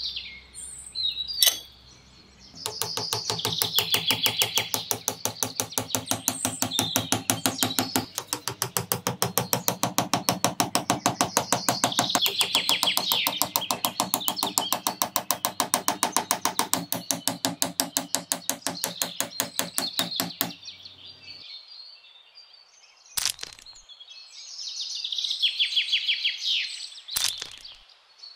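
Birds chirping and trilling in short bursts, over a fast, even ticking of about five beats a second with a low steady hum beneath it that stops about two-thirds of the way through. Two sharp clicks come near the end.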